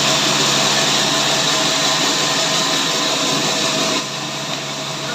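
A power saw cutting wood runs steadily with a constant machine noise, then drops in loudness about four seconds in.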